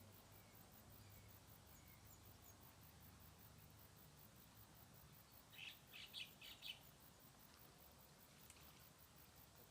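Quiet outdoor background with a faint low hum, and a short burst of about five quick high bird chirps a little past halfway.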